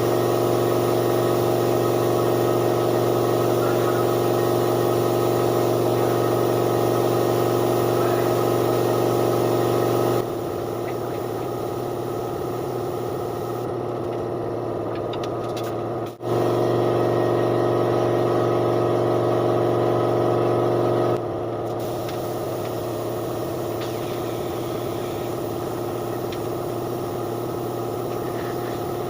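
A motor running with a steady hum, at full strength for about ten seconds, then dropping to a quieter level. It cuts out briefly, comes back at full strength for about five seconds, then drops to the quieter level again.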